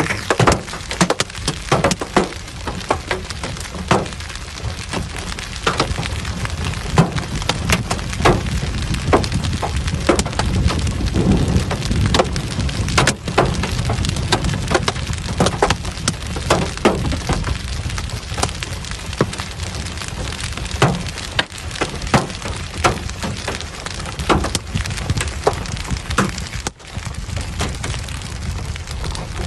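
Heavy downpour with hailstones, a steady rush of rain broken by many sharp, irregular clatters of hail striking hard surfaces.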